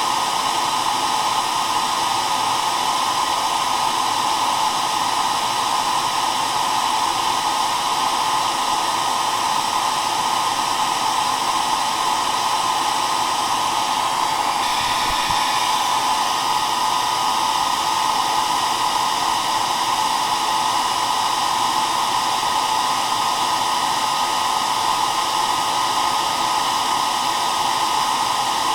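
Hair dryer running steadily: an even, unbroken rush of blown air with its strongest part in the middle range.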